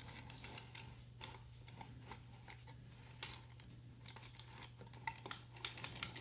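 Carriage of a 3D-printed flatbed knitting machine worked across the needle bed to knit a course, giving faint scattered clicks that come faster near the end, over a steady low hum.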